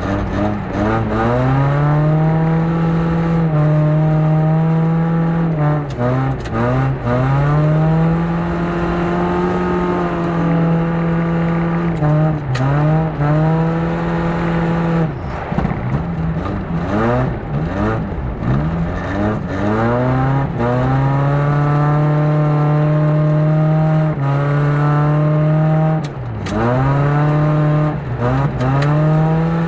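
Front-wheel-drive race car's engine heard from inside the cabin, revving hard on an ice track: the revs climb and hold high for several seconds at a time, then drop sharply and climb again about a dozen times as the driver lifts or changes gear. A couple of sharp clicks stand out above the engine.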